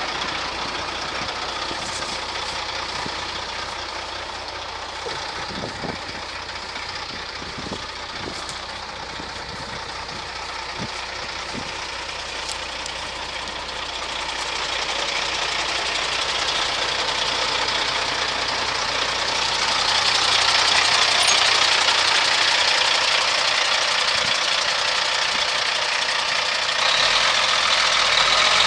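2007 Kenworth W900 truck tractor's diesel engine running steadily, getting louder about halfway through the stretch.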